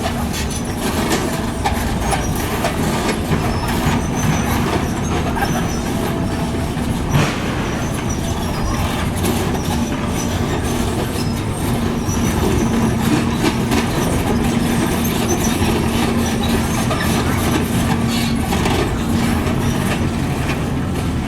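Heavy construction machinery running steadily with a low diesel hum and a held drone. Scattered metallic clanks and squeaks run through it, with one louder knock about seven seconds in.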